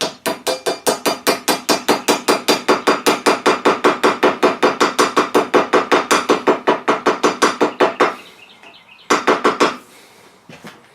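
Rapid, evenly spaced light hammer taps, about seven a second for some eight seconds, stopping, then a brief second flurry near the end, driving a chamfered Delrin bushing into the end of a steel EMT conduit.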